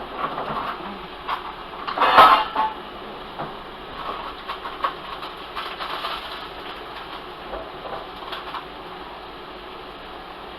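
Kitchen handling sounds: scattered knocks and clinks of utensils and cookware over a steady background hiss, with one louder clatter about two seconds in.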